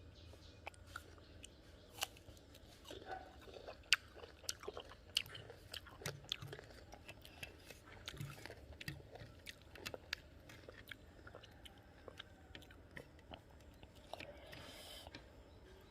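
Close-up crunching and chewing of raw guava: many sharp, irregular crisp crunches, busiest in the middle, with a brief rustle near the end.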